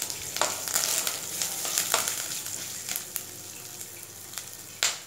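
Spices, rice, dal and curry leaves sizzling in hot oil in a nonstick pan while a spatula stirs them. The hiss slowly fades, broken by a few sharp clicks of the spatula against the pan, the loudest near the end.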